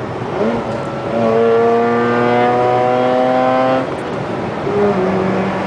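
Car engine pulling hard under acceleration, its pitch climbing steadily, then dropping suddenly at a gear change about four seconds in before it pulls again at a lower pitch.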